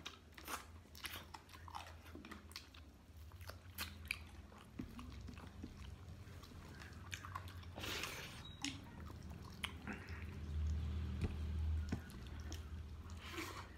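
A person chewing and biting a mouthful of rice and chicken curry, with scattered short mouth smacks and crunches, close to the microphone. A steady low hum runs underneath and grows louder about ten seconds in.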